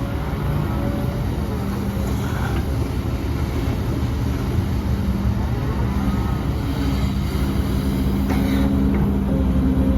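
Heavy diesel earthmoving machinery running steadily, a low continuous engine drone that grows slightly louder toward the end, with a short click about eight and a half seconds in.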